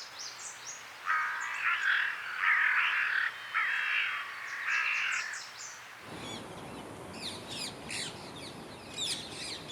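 A crow cawing four times, harsh calls a little under a second each, while small birds chirp high above. After about six seconds a busier stretch of rapid high chirping comes in over a steady hiss.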